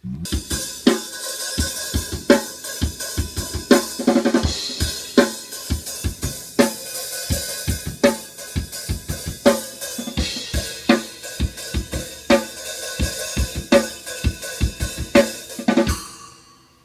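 Drum kit played in a steady beat, with kick drum, snare, hi-hat and cymbals. The playing stops near the end and the cymbals ring out.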